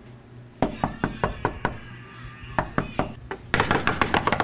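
Rapid knocking in several bursts of five or six quick knocks each, with a denser, busier run near the end.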